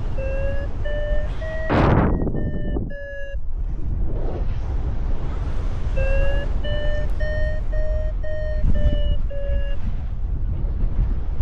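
Paragliding variometer sounding its climb tone: two runs of quick, evenly spaced beeps whose pitch rises slightly and then eases down, signalling that the glider is in lift. Strong wind buffets the microphone throughout, with a loud gust about two seconds in.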